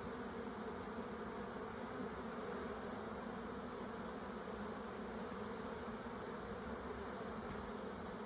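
Honeybees buzzing around their hive: a steady, many-voiced hum that does not change.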